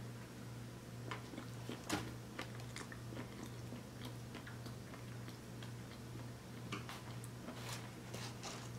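A person biting into and chewing a soft iced donut with sprinkles, with small wet mouth clicks and smacks scattered throughout, over a steady low hum.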